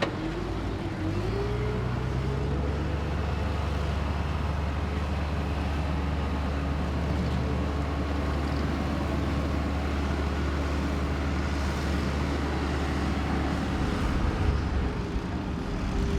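Car engine running steadily with a low hum, its pitch rising slightly about a second in.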